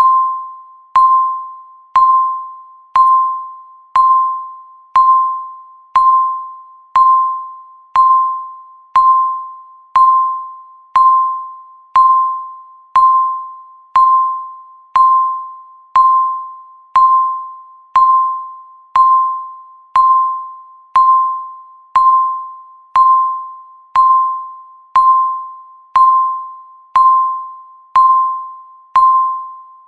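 Countdown timer beeping once a second, marking each second: a single ding-like tone that starts sharply and fades away before the next.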